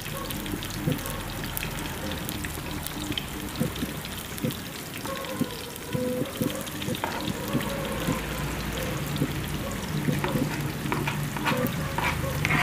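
Chopped onions and tomatoes sizzling in hot oil in a nonstick frying pan, a steady hiss with scattered crackles and spatula scrapes. The crackling picks up near the end as raw sliced meat goes into the pan.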